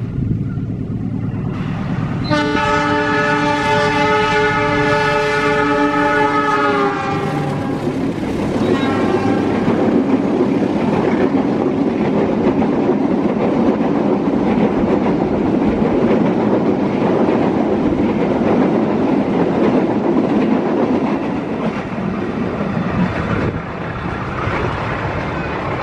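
Argo Parahyangan passenger train's diesel locomotive sounding its horn in a long chord of several notes that sags slightly in pitch as it ends, then a short second blast. The train then passes close by with a steady rumble and clickety-clack of the wheels, which falls away near the end.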